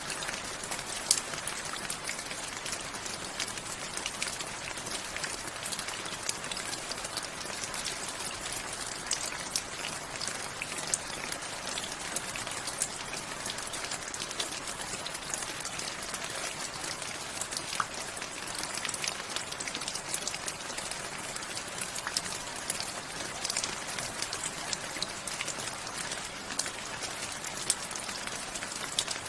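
Steady rain falling, a constant hiss with many separate drops ticking and pattering on a surface.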